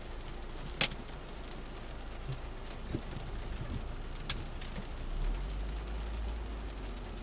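Rain falling on a car, heard from inside the cabin, over a low steady engine hum. A sharp click about a second in is the loudest sound, and a fainter click comes about four seconds in.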